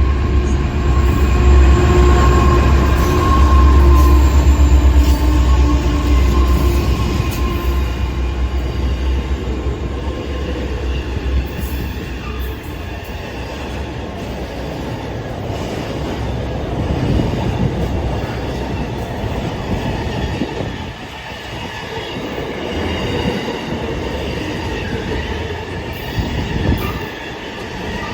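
Train running through a station: a heavy low rumble with steady whining tones, loudest over the first several seconds. It then eases into lighter rolling noise with thin high-pitched wheel squeal.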